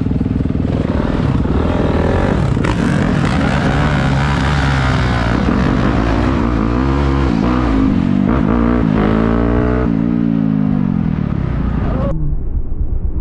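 Dirt bike engine revving up and down repeatedly as the rider accelerates and shifts, under a steady wash of rushing air noise. Near the end the hiss drops away suddenly while the engine keeps running.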